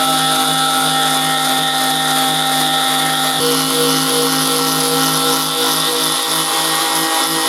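Electric sander running steadily with its abrasive grinding against the steel of an old wrench: a constant motor hum under a broad abrasive hiss, the tone shifting slightly about three seconds in.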